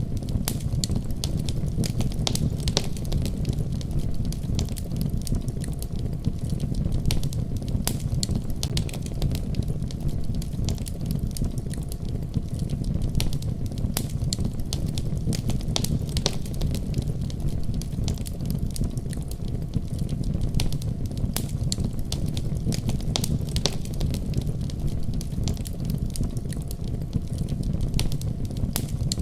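Wood fire crackling, with frequent sharp pops and snaps at irregular intervals, over a steady deep rumble of a winter storm.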